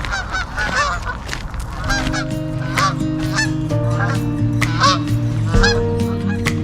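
A flock of geese honking repeatedly, many short calls overlapping. Background music with held notes comes in about two seconds in.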